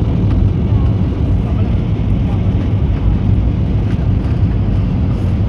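Steady low rumble of an Airbus A320neo in flight, heard from inside the passenger cabin, with a few faint ticks over it.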